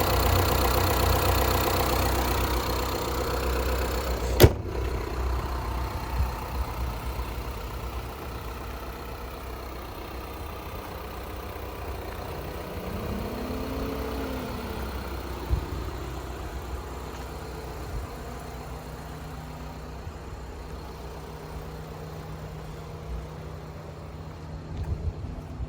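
Peugeot Boxer van's engine running, loudest in the first few seconds and then settling to a steadier, quieter idle. There is a sharp click about four seconds in and a brief rise and fall in pitch about thirteen seconds in.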